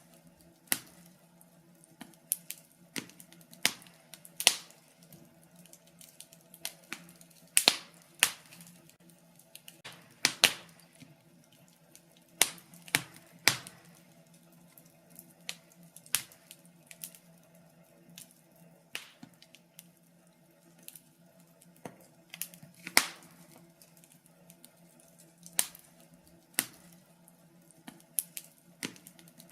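Fire crackling in a fireplace: irregular sharp pops and snaps, some much louder than others, over a faint steady low hum.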